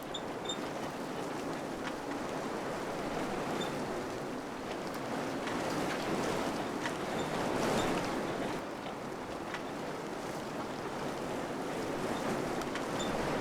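Wind blowing in gusts, a steady rushing that swells to its strongest a little past the middle and then eases, with a few faint short ticks scattered through it.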